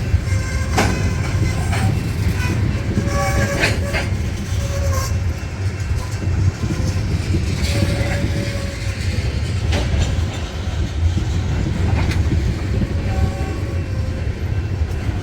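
Freight train cars rolling past, a steady low rumble of steel wheels on rail with repeated sharp clanks.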